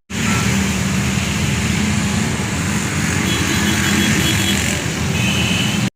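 Motor vehicle running steadily: a constant low engine hum under a wide rushing noise, which starts and cuts off abruptly.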